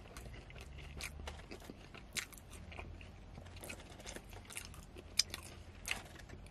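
Close-miked chewing of crispy seasoned curly fries: soft crunches and wet mouth clicks, with a few sharper crunches standing out.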